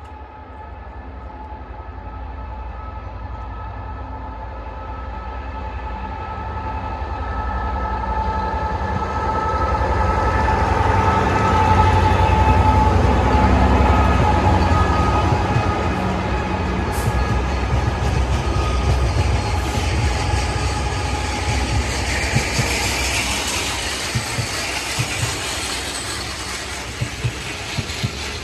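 Diesel freight locomotive approaching and passing under power, its engine growing louder over the first dozen seconds. Then the wagons follow, clicking over the rail joints.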